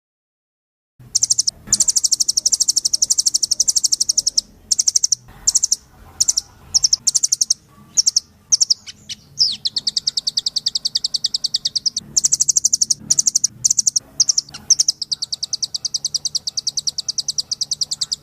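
A rambatan nuthatch singing: rapid high trills of fast repeated notes, in long runs with a stretch of short separate bursts in the middle. It starts about a second in and cuts off abruptly at the end.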